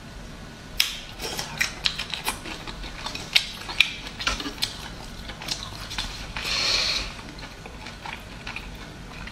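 Close-miked chewing of a peeled boiled prawn, with wet mouth smacks and clicks coming irregularly, several a second, for the first few seconds. It ends in a short breathy hiss about seven seconds in.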